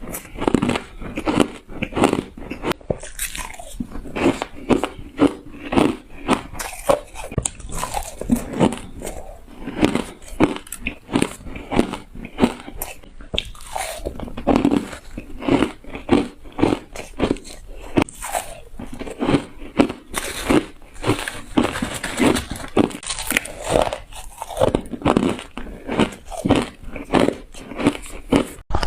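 Close-up crunching of a person biting and chewing shaved ice, many quick irregular crunches a second.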